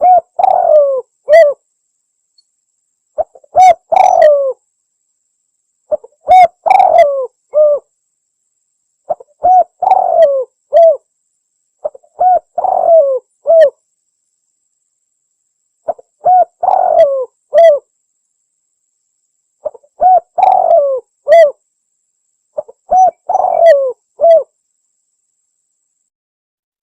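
Spotted dove (tekukur) cooing: about eight short phrases of a few coos each, roughly one every three seconds, with silence between them.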